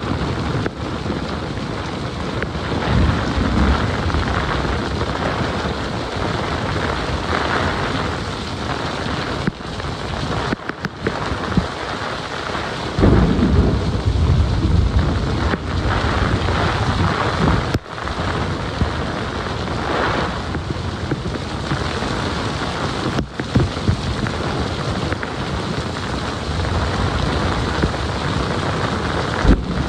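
Thunderstorm: heavy rain falling steadily, with low rolls of thunder, one about three seconds in and the loudest about 13 seconds in.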